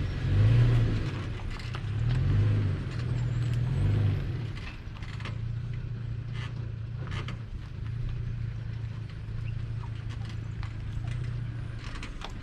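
Car driving, a steady low engine and road rumble that surges louder a few times in the first four seconds and then runs evenly, with scattered light clicks and knocks.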